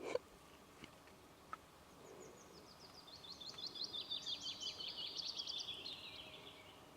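A short knock right at the start, then a small songbird sings a rapid run of high, quick notes lasting about five seconds, slowly falling in pitch toward the end.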